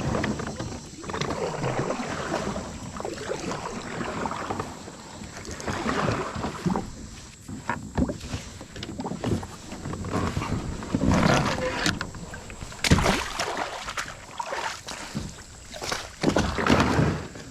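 Irregular knocking, scraping and rustling of gear being handled in a kayak as it is pulled up and a fishing line is set out, with a couple of sharper knocks past the middle.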